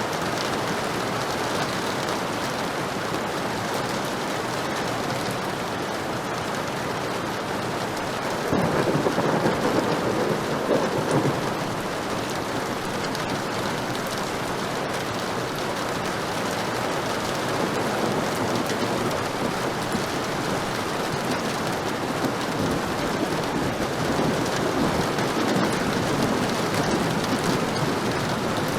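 Heavy rain falling steadily, with a roll of thunder about a third of the way in and a softer rumble near the end.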